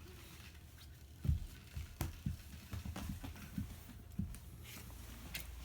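Scattered soft thumps and a few sharp clicks, irregular, starting about a second in: handling noises in a small room.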